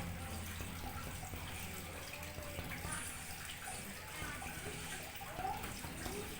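Steady trickle of running water over a low, steady hum.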